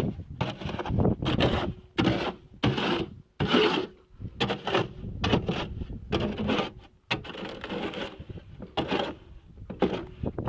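A hand tool scraping through wet concrete patch mix in about a dozen irregular strokes, each roughly half a second long: the mix being worked and spread.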